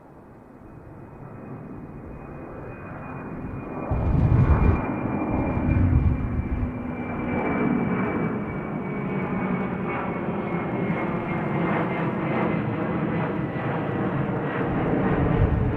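Airliner taking off, its engines at takeoff power growing louder: a high whine that slowly sinks in pitch over a low rumble, which swells sharply about four seconds in and crackles in surges.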